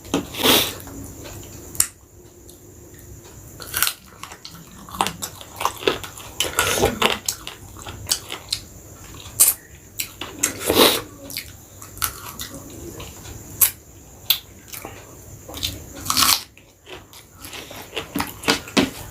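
Close-miked eating sounds of a person chewing chicken biryani, with irregular sharp clicks and smacks of the mouth.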